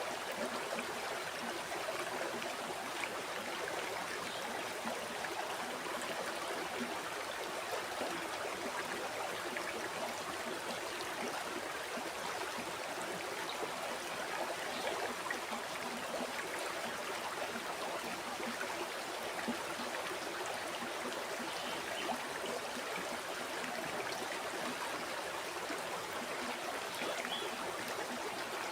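River water flowing over rocks, a steady rushing with trickling and gurgling.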